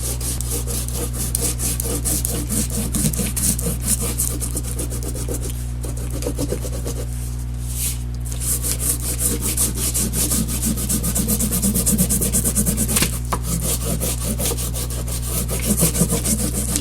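A peeled wax crayon rubbed on its side across paper in quick, repeated back-and-forth strokes, over a steady low hum.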